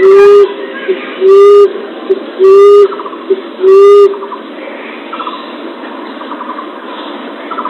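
Emerald dove (punai tanah) call used as a hunting lure: four low, loud coos, each about half a second long and a little over a second apart. After that only faint short trills are heard.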